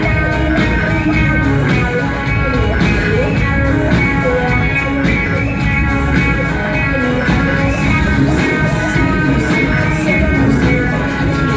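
Loud amplified live band music with guitar and a steady beat.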